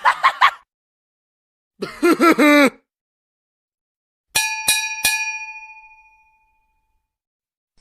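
A short, vocal-style sound effect: a person's voice uttering a quick few sounds. Then a small bell is struck three times in quick succession, about a third of a second apart, and rings out, fading over about two seconds.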